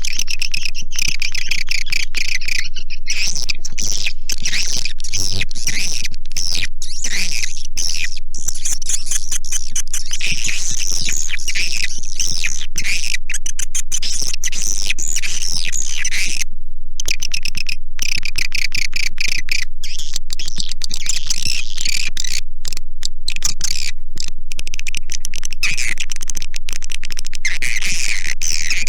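Dense, unbroken twittering and chirping of swiftlets, many short high calls overlapping. It is a swiftlet call recording of the kind played in swiftlet houses to lure and settle the birds.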